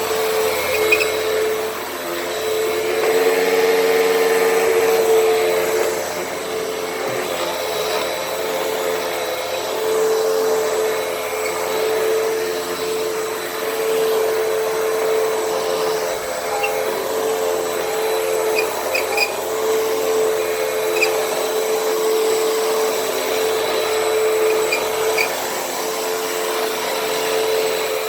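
Hoover WindTunnel T-Series upright vacuum cleaner running continuously over carpet: a steady motor whine on one held pitch over a rushing airflow noise. It swells a little a few seconds in, and a few faint ticks come later.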